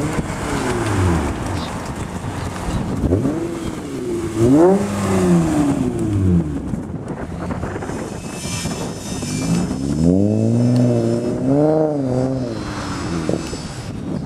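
Acura RL V6 exhaust as the engine is revved several times, its pitch rising and falling with each rev, with a run of quick blips near the end.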